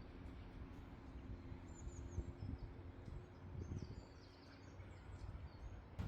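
Faint birdsong: scattered short high chirps and little trills from small birds, over a low rumble on the phone's microphone.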